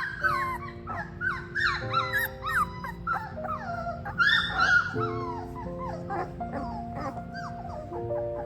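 Three-week-old fox red Labrador puppies whining and yelping, many short high cries overlapping, loudest near the start and again about four seconds in. Background music with held notes plays underneath.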